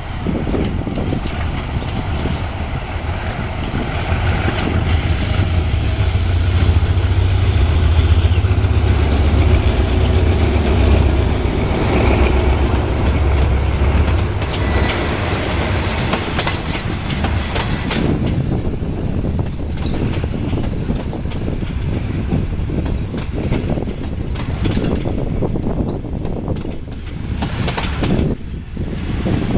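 Train running on the rails: a low engine rumble, loudest in the first half, with the wheels clicking over rail joints throughout. About five seconds in there is a burst of hiss lasting some three seconds.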